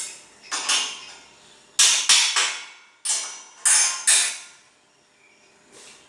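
Hammer knocking on steel, about six sharp metallic blows in uneven succession, each with a short ringing decay.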